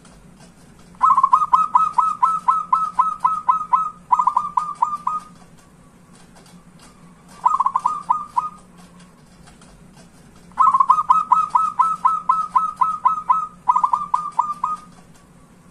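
Zebra dove (perkutut) calling in quick trains of short cooing notes: a long run of about a dozen notes, then shorter runs. The whole pattern is heard twice.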